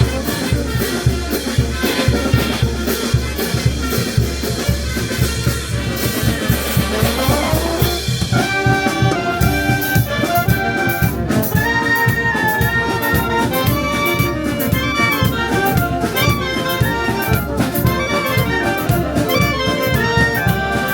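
Brass band playing over a steady bass drum beat. About eight seconds in, a rising slide leads into a clearer melody of held brass notes.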